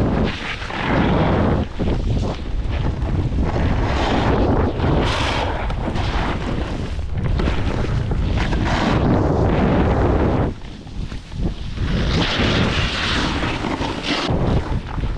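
Wind buffeting the camera microphone while snowboarding downhill, a loud rushing rumble that swells and eases, with the snowboard sliding on snow underneath. It dips briefly about two-thirds of the way through.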